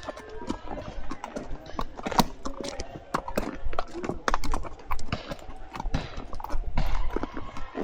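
A horse's hooves clip-clopping in an uneven walking rhythm, with faint voices in the background.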